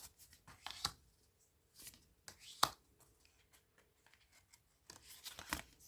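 Tarot cards being handled and laid down one after another: scattered short slides and taps of card stock, the most pronounced about a second in, around two and a half seconds in, and a small cluster near the end.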